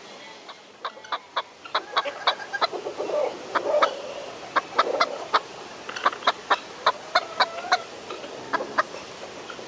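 A gamebird of the chicken family clucking: an irregular run of short, sharp notes, with a few brief pitched calls mixed in.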